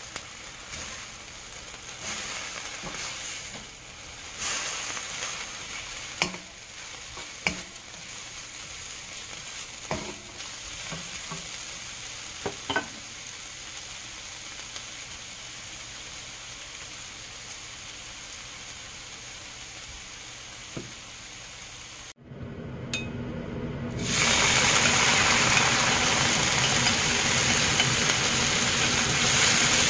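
Vegetables sizzling in oil in a hot wok as shredded bellflower root is stir-fried, with a few sharp clicks of chopsticks against the pan. After a short break about two-thirds of the way through, a louder, fuller sizzle as bracken stems fry.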